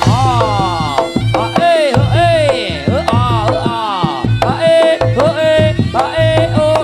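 Reog gamelan music: hand drums beat a steady pattern under a wailing melody that repeatedly slides down in pitch and then holds one high note in short repeated blasts.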